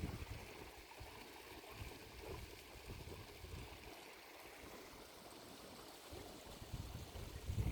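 Faint wind on the microphone: a low, uneven rumble over a steady soft hiss, swelling again near the end.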